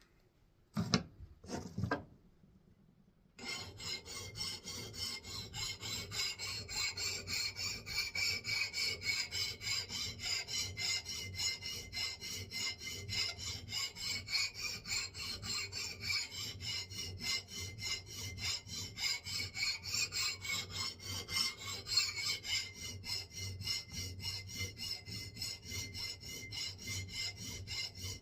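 Hand file scraping the steel of a 3½-pound axe head in steady back-and-forth strokes, about two a second. Two short knocks come just before the filing starts.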